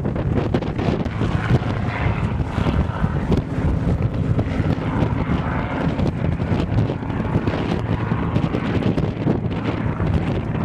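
An aircraft engine drones steadily under heavy wind rumble on the microphone.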